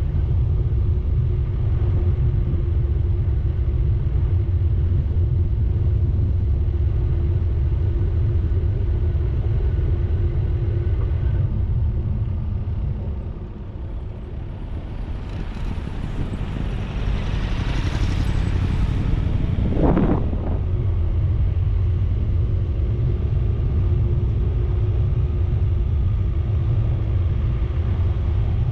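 Steady low rumble of a vehicle driving, engine and road noise. Just under halfway through it dips briefly, then a louder hiss swells and fades about two-thirds of the way through, like another vehicle passing close by.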